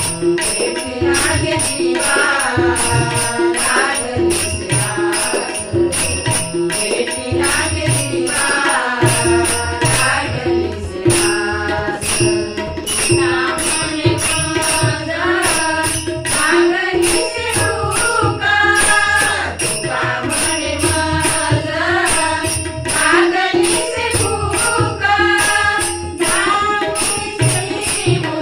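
Marathi devotional abhang played as bhajan music: a wavering sung or harmonium melody over tabla, with small hand cymbals (tal) striking a steady beat about twice a second.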